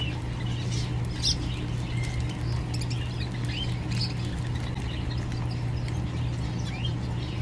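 Several small birds chirping and calling in short, scattered notes throughout, over a steady low hum.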